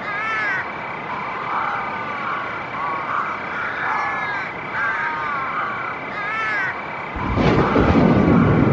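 Repeated short chirping animal calls with a steady pulsing trill behind them. About seven seconds in, a loud low rumble sets in.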